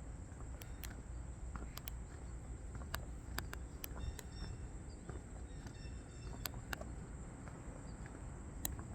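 Outdoor ambience of insects giving a steady high-pitched drone, with short bird chirps about four and six seconds in, and scattered sharp clicks over a low rumble.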